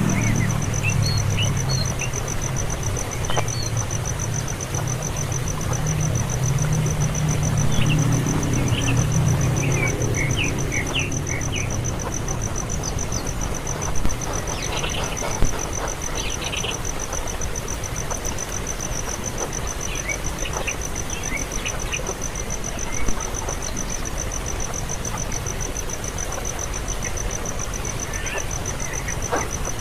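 Nestling birds chirping in short, high, scattered runs over a steady pulsing insect trill. A low engine hum fades out about twelve seconds in.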